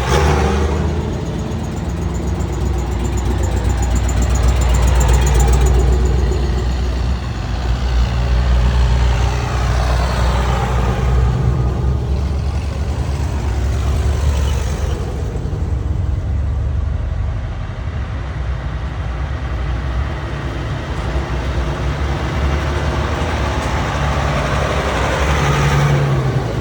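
Tractor engines running as a procession of tractors drives past one after another: a steady low engine hum, with the engine sound dropping in pitch each time one goes by, several times.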